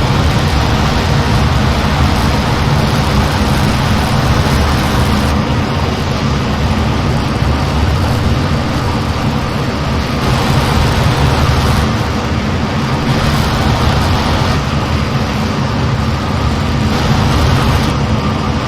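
Steady, loud engine drone with a constant low hum, unbroken throughout.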